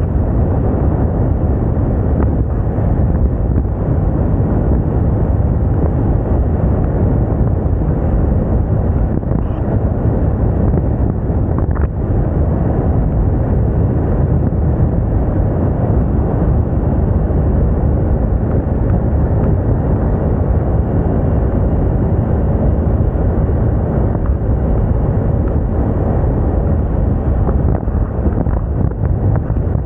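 Steady wind rush over the microphone of a moving Moda Moca 110 scooter, a dense low noise, with road and engine noise mixed in underneath.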